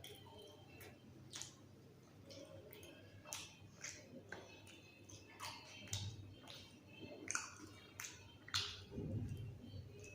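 Close-up chewing and wet mouth smacks of a person eating a roll, with a dozen or so sharp, irregular clicks of lips and tongue.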